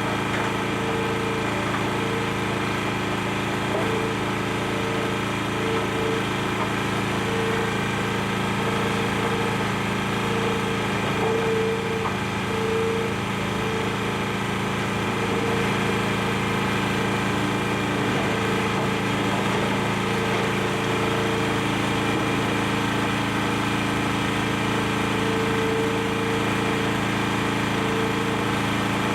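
Excavator's diesel engine running steadily, with a higher tone that wavers and breaks up irregularly over it.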